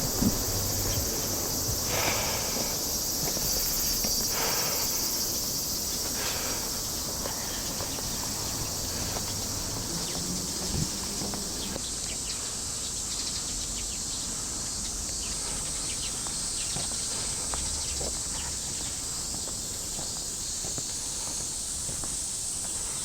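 Steady high-pitched chorus of summer insects, typical of cicadas, with faint footsteps underneath.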